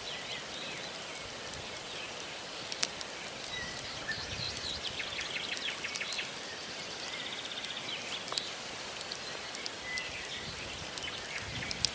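Wood campfire crackling, with scattered sharp pops over a steady hiss, while small birds chirp and trill in the background.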